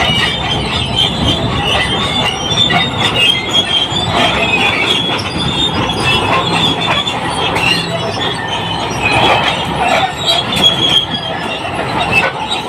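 Crawler bulldozer at work: its steel tracks squeal and clank continuously over the low running of its diesel engine.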